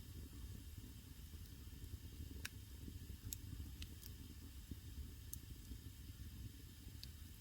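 Wood fire burning in a traditional Korean agungi firebox: a faint, steady low rumble with scattered sharp crackles and pops from the burning wood.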